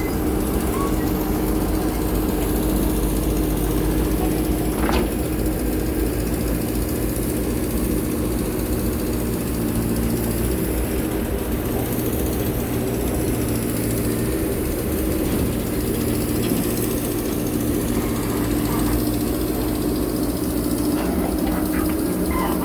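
Diesel engine of a JCB backhoe loader running steadily, with a brief sharp click about five seconds in.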